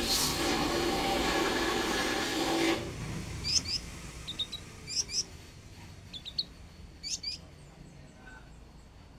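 A loud, steady, noisy sound with some held tones cuts off abruptly about three seconds in. A konin songbird then gives short, sharp, high chirps in quick pairs and clusters, five or six groups over the next few seconds.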